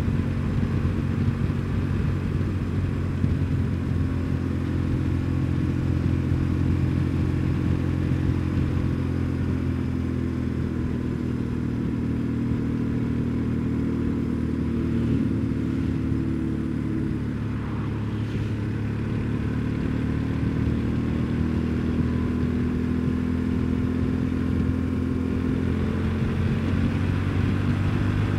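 BMW R1150GS's boxer-twin engine running under way at a fairly steady speed. The engine note sags a little about halfway through and picks up again.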